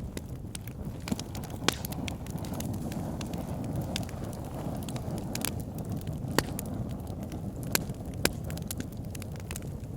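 Backyard fire pit burning: a steady low rumble of flames with irregular sharp crackles and pops, a few louder snaps among them.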